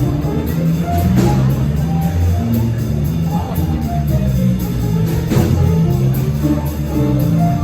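A high school jazz big band playing, with held notes over a walking low line and a steady beat.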